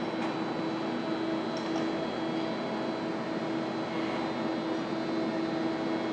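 Electric train running: a steady rumble with a constant hum.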